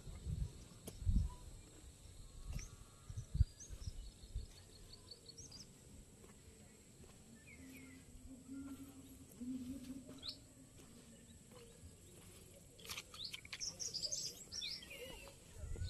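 Faint outdoor ambience with scattered bird chirps and short trills from several small birds, coming in brief clusters. There are a few low thumps in the first few seconds.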